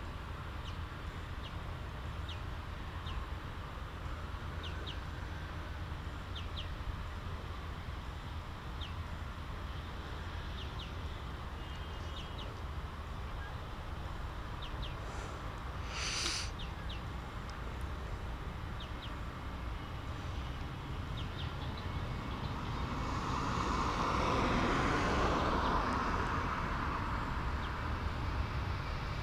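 Quiet outdoor background between aircraft movements: a steady low rumble, many small chirps, and one brief sharp noise about midway. Near the end a distant engine or vehicle rises for a few seconds and then fades.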